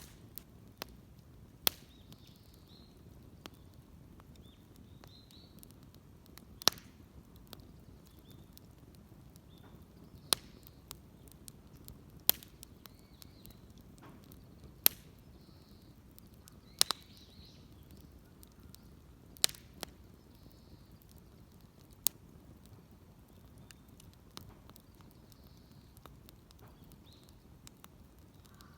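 Sharp single cracks of wood, one every two to three seconds, over a low steady background.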